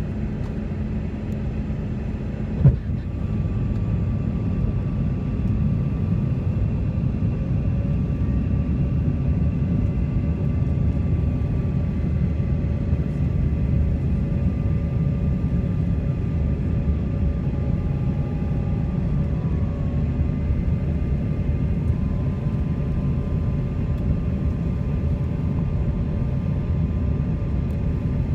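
Steady low rumble of an airliner's engines and airflow heard from inside the cabin, with a single sharp click about three seconds in.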